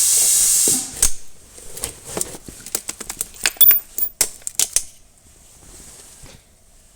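A spray hissing steadily, stopping abruptly just under a second in, then a quick run of sharp metallic clicks and clinks as parts are handled during fitting of a connecting rod cap on the engine's bottom end.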